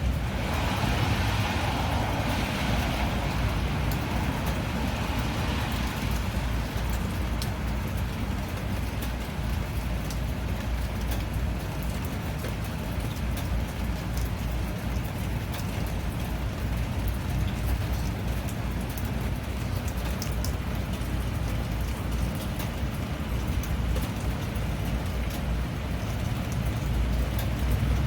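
Steady rain, with many scattered drop ticks over an even hiss and a deep low rumble.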